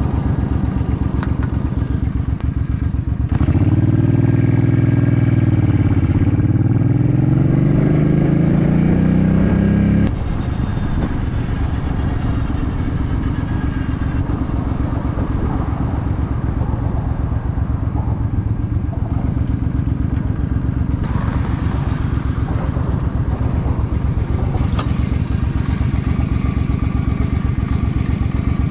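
2006 Suzuki C50's 805 cc V-twin engine running under a rider. About three seconds in it opens up louder, the note dipping and then climbing steadily as it accelerates, then drops back abruptly about ten seconds in to steady, quieter running.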